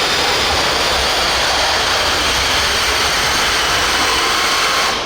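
Motor of an RC pulling truck or tractor running flat out at a steady high pitch during a pull, cutting off suddenly near the end.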